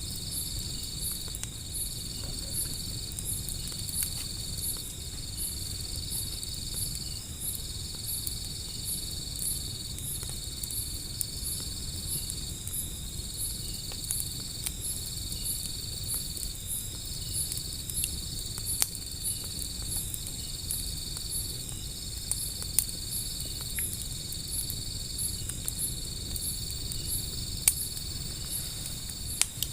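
A steady chorus of insects: one continuous high trill broken by short regular gaps, over a faster pulsed chirping higher up. A wood fire gives a handful of sharp crackles and pops scattered through it.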